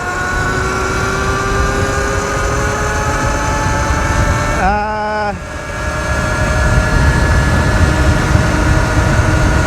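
Sur-Ron Light Bee electric dirt bike's motor whining under full throttle on a top-speed run, about 47 mph. The whine rises slowly in pitch, wavers briefly about five seconds in, then holds steady under a heavy rumble of wind on the microphone.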